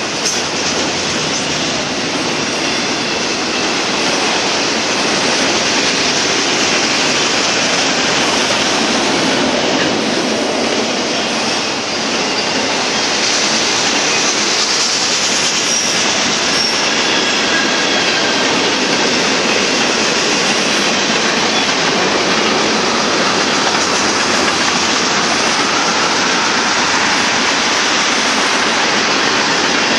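Freight cars of a Union Pacific manifest train, autoracks and covered hoppers, rolling past steadily: a continuous noise of steel wheels on rail, a little louder after the first few seconds. Faint high squeals from the wheels come and go in the middle.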